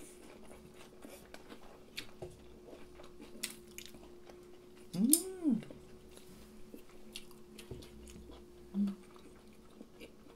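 Close-miked chewing of fried katsu and chicken, with soft mouth clicks and chopstick taps over a faint steady hum. About halfway in there is a short hum that rises and falls in pitch, and a briefer one near the end.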